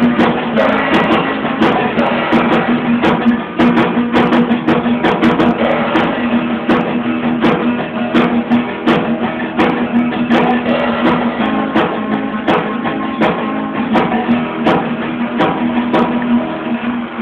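Band playing a song: strummed guitar over a steady beat of sharp percussive hits, with a held low note underneath.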